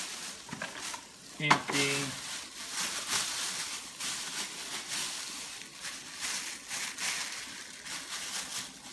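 Plastic bags and packaging rustling and crinkling as salvaged items are rummaged through and handled, a continuous crackle of small irregular ticks.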